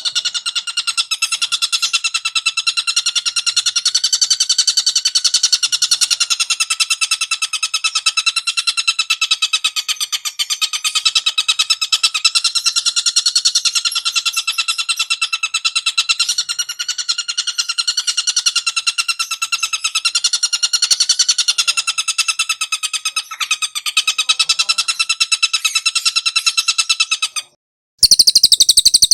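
Recorded bird call played as a continuous, rapidly pulsing trill on one steady pitch. It cuts off briefly near the end, and a different, higher-pitched bird call starts.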